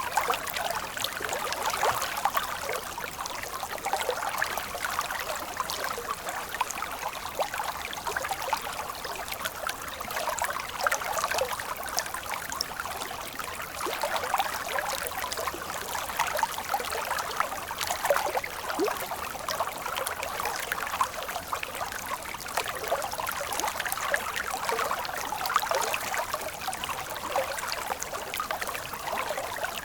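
Stream flowing: steady babbling and splashing of water, bright rather than deep, with no low rumble.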